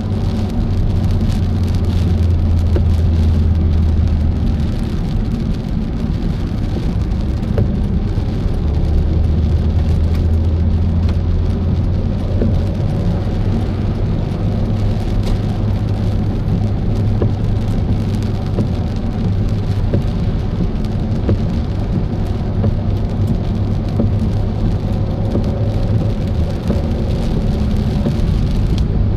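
Rain striking a moving car, heard as a steady wash of many small ticks, over the low drone of the engine and tyres on a wet road.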